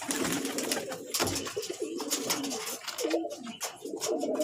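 A flock of domestic pigeons cooing together in a loft, many overlapping low calls, with frequent sharp clicks and flutters from their wings and feet.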